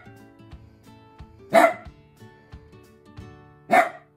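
Small dog barking at its owner: two sharp single barks, about two seconds apart.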